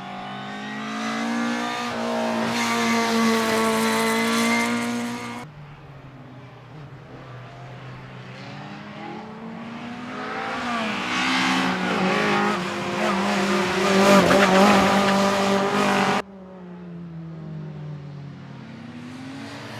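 Cars passing on a race track, engines revving hard with rising and falling pitch, with tyre squeal as they drift. Two loud passes, each cut off abruptly, with quieter engine noise in between.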